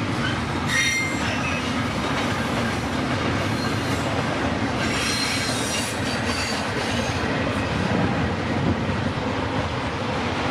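CPKC freight train's cars rolling steadily past on the rails, with brief high wheel squeals about a second in and again around five seconds in.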